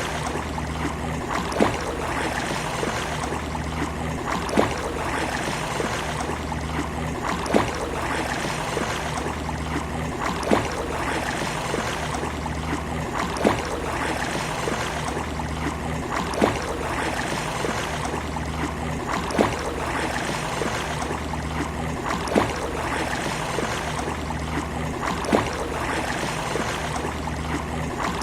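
Small sea waves lapping steadily, with a short splash or slap recurring about every three seconds.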